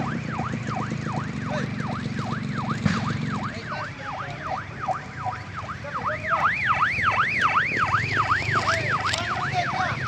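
Fast yelping vehicle siren, about three rising-and-falling whoops a second, louder in the second half, over the low steady running of a truck engine.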